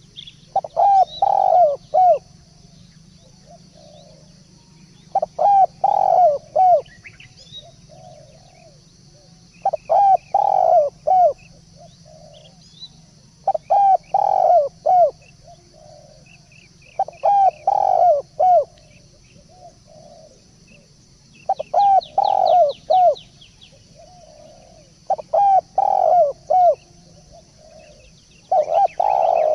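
Turtledove cooing: a short phrase of several quick coos, repeated about every four seconds, eight times. Faint chirps of small birds come between the phrases.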